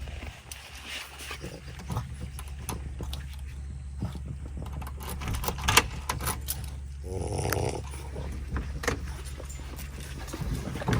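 A French bulldog's noises among scattered clicks and knocks, with one louder burst lasting about a second, about seven seconds in, over a steady low hum.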